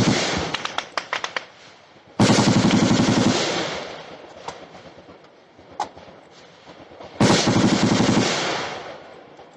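Automatic gunfire: three bursts of rapid shots, each lasting about a second and followed by a long echoing tail, at the start, about two seconds in and about seven seconds in, with a few single shots between them.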